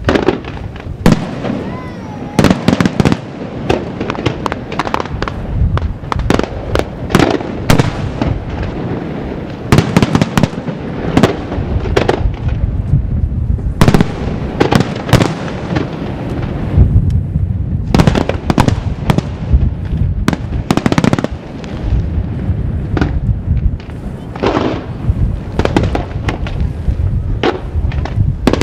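Aerial firework shells bursting in a dense barrage of bangs and crackles, several a second, with hardly a pause.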